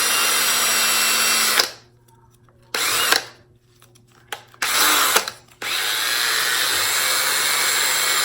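Cordless drill spinning a plane screw while its threads are cleaned. It runs in bursts: a run that stops after about a second and a half, two short bursts around three and five seconds in, then a steady run from about five and a half seconds onward.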